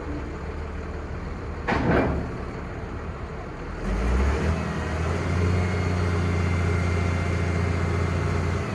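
The 5.9L Cummins six-cylinder diesel of a Ford F800 crane truck idling, with a short sharp hiss about two seconds in. About four seconds in the engine speeds up and runs steady at a higher speed.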